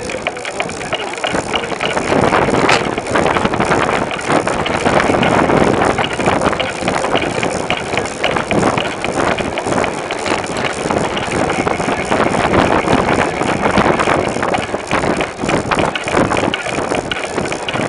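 Bicycle riding noise: loud, fluctuating rumble of tyres on pavement and air rushing over the microphone, with occasional small knocks and rattles from the bike.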